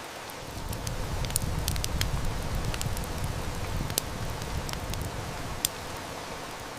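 Heavy rain hissing steadily, with a low rumble of distant thunder swelling about half a second in and fading by about five seconds. Sharp snaps of a burning wood fire crackle over the rain, the loudest near four seconds and just before six.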